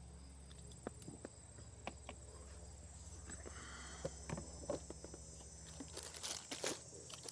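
Crickets trilling steadily at a high pitch, with scattered small clicks and rustles of handling close by.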